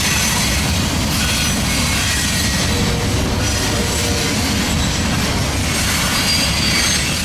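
Freight train cars rolling past, a steady rumble of steel wheels on rail with high wheel squeal ringing over it.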